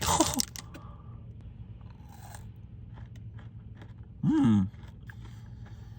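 A person chewing and biting into a pistachio dessert close to the microphone: small crunchy mouth clicks throughout, a brief vocal sound at the start and a short hummed "mm" of approval about four seconds in.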